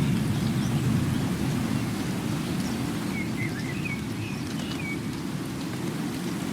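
Steady rain with a low, continuous rumble underneath, easing slightly. A few faint, high chirps come about halfway through.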